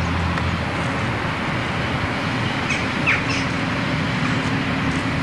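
A motorcycle engine running at idle, its low hum dropping away about half a second in, over a steady traffic hum. Birds chirp briefly about three seconds in.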